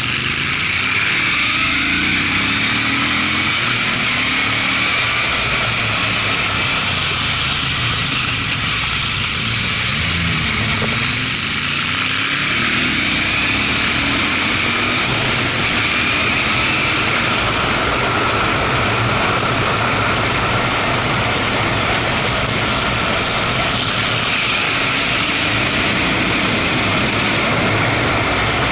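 Moto Guzzi California 1400's air-cooled V-twin engine pulling up a mountain road, its pitch rising and falling with the throttle, over steady wind rush on the action camera.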